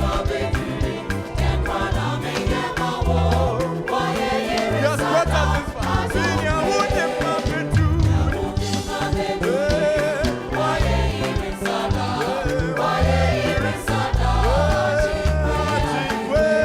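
A gospel choir singing with a full band, voices over a bass line and drums.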